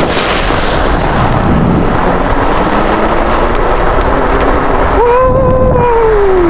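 Heavy wind buffeting the microphone while riding an e-bike through a snow storm, a loud, steady rumble. About five seconds in, a single tone rises briefly and then falls.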